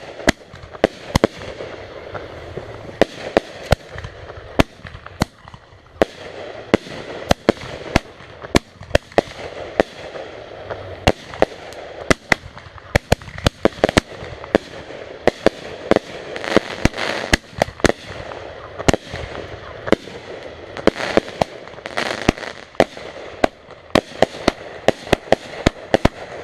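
Backyard consumer fireworks going off in rapid succession: sharp bangs, often several a second at uneven intervals, over a continuous noisy background.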